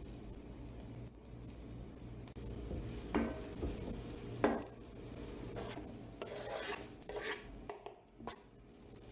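Chopped onion, garlic and ginger sizzling in oil in a non-stick frying pan while a wooden spoon stirs them, scraping across the pan several times from about three seconds in.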